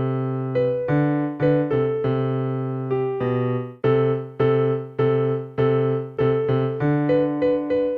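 Electronic keyboard with a piano voice playing a simple two-hand tune: a low part and a higher part struck together, about two notes a second with some quicker pairs, each note fading before the next.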